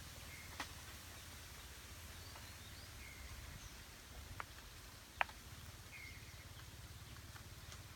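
Quiet outdoor ambience under a low steady rumble: a bird gives a short, flat call every few seconds, with a few fainter chirps between. Three sharp clicks or snaps come through, the loudest about five seconds in.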